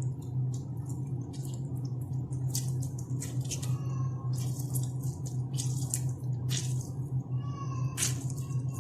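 Lemon being squeezed by hand over raw chicken: short, irregular wet squishes and juice dripping, over a steady low hum.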